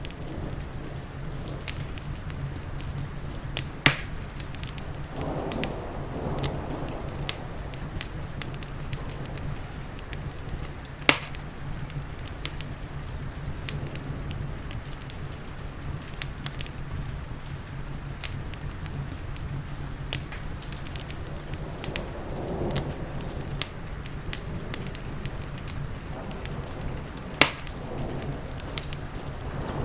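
Crackling wood fire with many small pops and three sharp, loud snaps, over a steady bed of rain.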